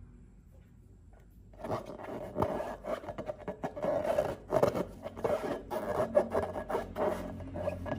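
Hands working slime-making materials, with crackly rubbing and scraping full of small clicks that starts about a second and a half in.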